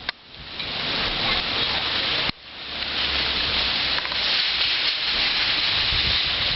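Thunderstorm wind gusts and rain making a steady rushing noise. It breaks off suddenly about two seconds in, then swells back up.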